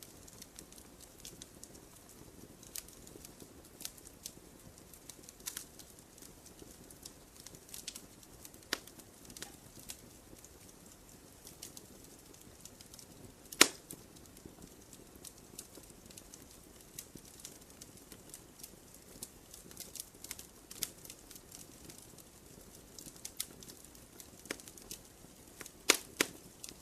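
Wood campfire crackling: scattered sharp snaps and pops over a low hiss, with one loud pop about halfway through and a few more near the end.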